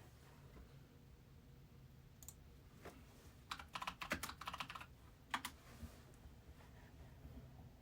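Faint clicks and taps: a quick run of sharp clicks about three and a half seconds in, lasting just over a second, with a few single clicks around it, over a low steady hum.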